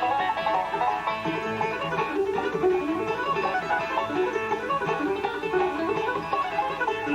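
Live acoustic bluegrass band playing an instrumental, with banjo, mandolin and guitar picking over upright bass.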